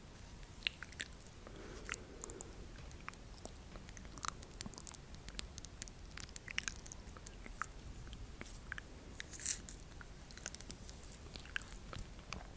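Close-miked ASMR mouth sounds: scattered soft, wet clicks and smacks, irregular, with one louder crackle about nine and a half seconds in.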